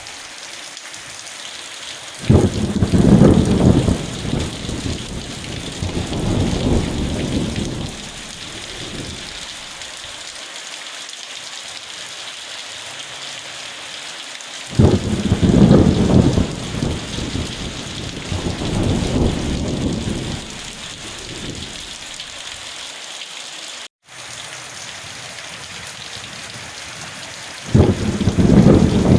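Steady heavy rain falling, with thunder rumbling three times about twelve seconds apart: each roll starts suddenly, swells again once or twice and dies away over several seconds. The sound cuts out for an instant about two-thirds of the way through.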